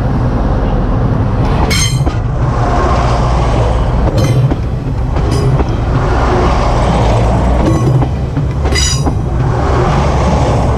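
Train running past on the rails with a steady low rumble and a few clicks from the wheels. Two brief high-pitched wheel squeals come about two seconds in and again near the end.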